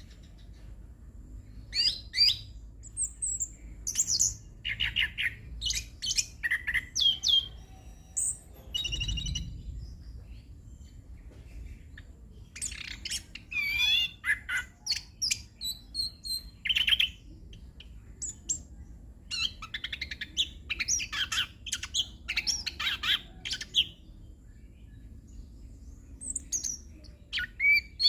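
Orange-headed thrush (anis kembang) singing a full, varied song packed with mimicked phrases of other birds, delivered in several bursts of quick, high whistled notes with short pauses between them.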